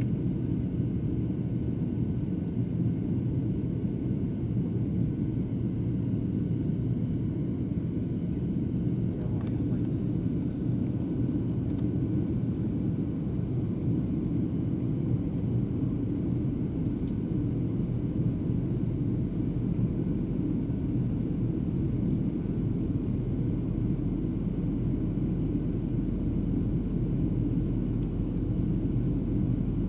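Steady cabin noise of an airliner in flight, a constant low rumble of engines and airflow.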